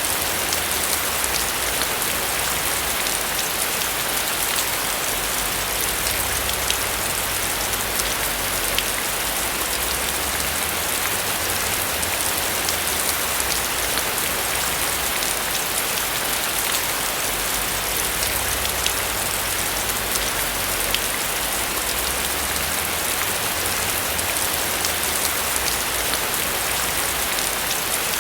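Steady rain falling on a roof, an even hiss with many fine drop ticks, unchanging throughout.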